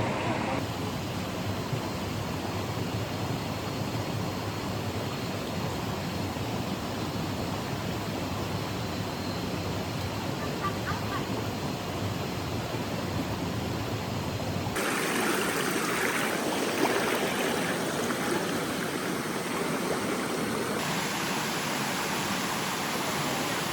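Steady rush of a waterfall and its stream. The water sound shifts abruptly twice, about fifteen and twenty-one seconds in, turning brighter and hissier after the first change.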